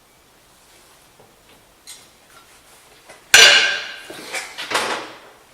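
Metal parts clanking: a few light knocks, then a loud sharp metallic clank about three and a half seconds in that rings briefly, and a second clank about a second later.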